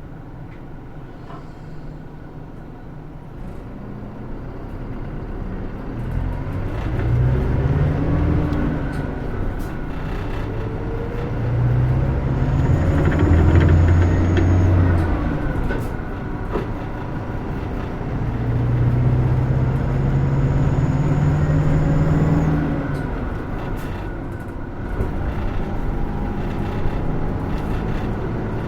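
Inside the cabin of a Hino Rainbow II diesel route bus pulling away and accelerating through the gears. The engine note climbs, drops back at a shift, and climbs again, three times over, loudest about halfway through.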